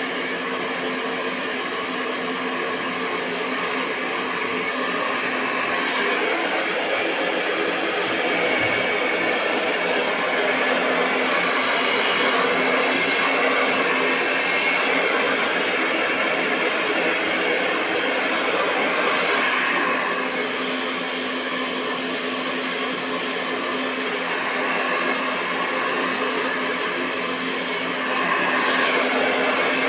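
Hair dryer running continuously: a steady rush of blown air over a constant motor hum. Its loudness swells and dips a little, rising after a few seconds, easing off about two-thirds of the way through and rising again near the end.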